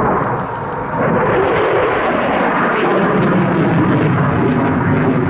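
Eurofighter Typhoon's twin EJ200 turbofan jet engines at high power during its display exit; the sound gets louder about a second in, then its pitch slides down as the jet goes past and away.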